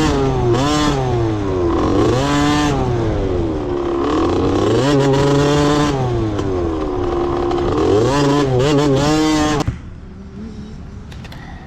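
Motocross dirt bike engine revving loudly, its pitch climbing and dropping again several times as the throttle is opened and closed. The engine sound stops abruptly near the end, leaving a much quieter background.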